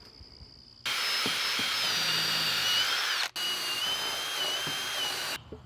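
Power drill boring a hole for a bolt, running at a steady whine for about four and a half seconds with a momentary break about halfway through.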